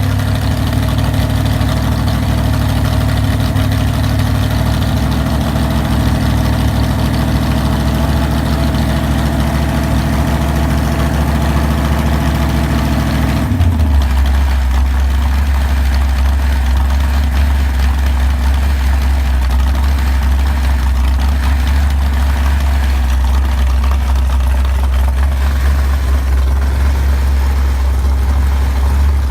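Rebuilt Chrysler 440 big-block V8 running on an engine stand from a cold start. About halfway through its speed drops suddenly to a lower, steadier idle.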